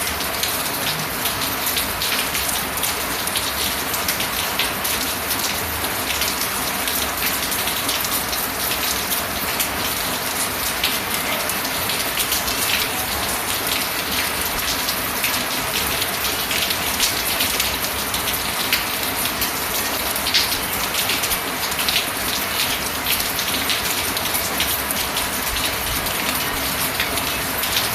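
Rain falling steadily, an even hiss dotted with many small sharp drop ticks.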